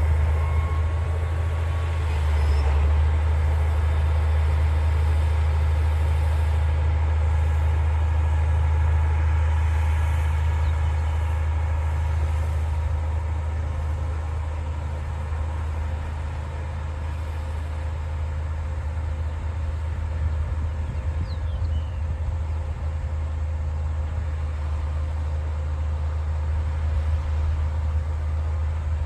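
D60 bulldozer's diesel engine running steadily under load, a deep continuous drone with a faint steady whine above it.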